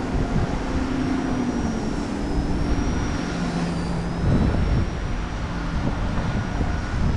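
XK K110s micro RC helicopter's electric motors and rotors whining steadily in a hover, the whine shifting and dipping in pitch as the throttle and rotor load change. Heavy wind rumbles on the microphone underneath.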